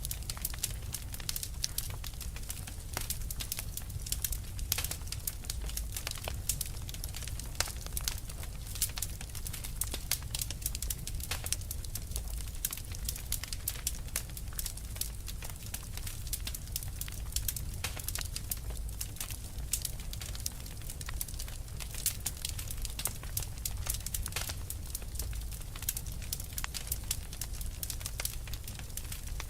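Wood fire burning, with dense irregular crackles and pops over a steady low rumble of flame.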